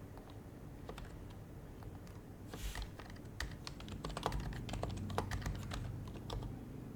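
Typing on an HHKB Professional HYBRID Type-S keyboard, its silenced Topre capacitive keys giving soft, muted keystrokes. First a few scattered keystrokes and a short rustle, then a quick run of keystrokes from about three seconds in.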